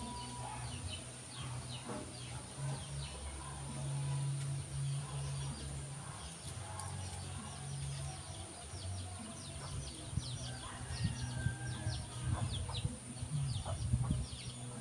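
Small birds chirping in quick, repeated short notes over a steady low hum, with a few faint knocks.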